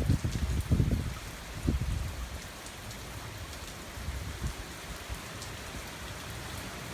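Steady hurricane rain falling and pattering on surfaces. A gust of wind buffets the microphone with a low rumble for about the first second, then dies down.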